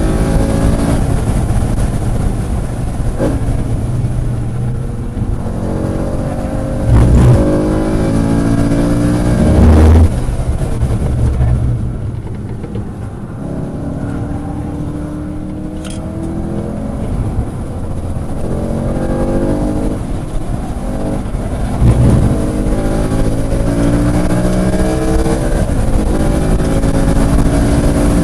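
Sports car engine at full throttle on a race track, heard from inside the car. The revs climb and drop back through several gear changes, ease off under braking in the middle, then build again, over road and wind noise. Two loud low thumps come a few seconds in.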